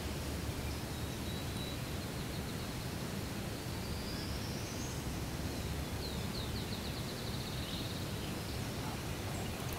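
Faint songbird calls over steady outdoor background noise: a thin rising whistle about four seconds in, then a quick trill of repeated notes about six seconds in.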